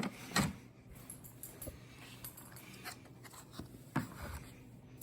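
Plastic parts of a stick vacuum's filter and dirt container being handled while dirt is picked out of them: light rustling and scraping, with a knock just under half a second in and another about four seconds in. The vacuum's motor is off.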